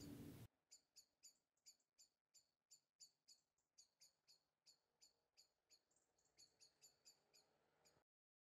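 Faint high-pitched chirps of a small bird, repeating about three times a second in a near-silent room.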